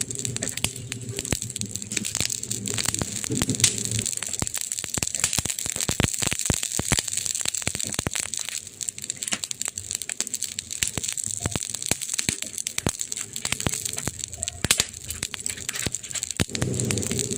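Wood fire crackling and popping in a fireplace: rapid, irregular sharp snaps over a steady hiss. A low rumble under the crackle drops away about four seconds in.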